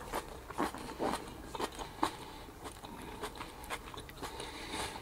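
Close-up chewing of crunchy lettuce-wrapped taco: irregular crunches and mouth clicks, a few each second.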